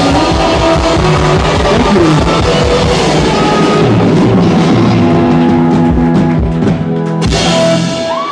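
Live rock band playing, guitar over a drum kit, loud and dense; near the end the band stops, hits one last chord and the song ends.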